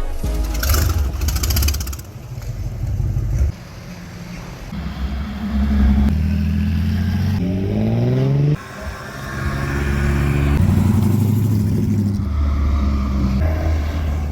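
Car engines running, heard as several short clips that cut from one to the next. One engine revs up briefly about three-quarters of the way through.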